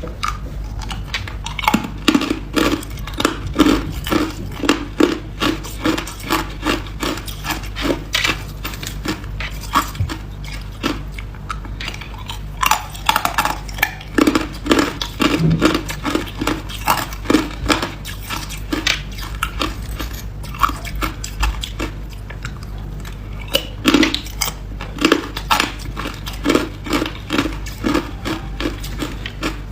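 A person chewing hard ice, crunching it between the teeth close to the microphone. The crunches come several a second in runs with short pauses.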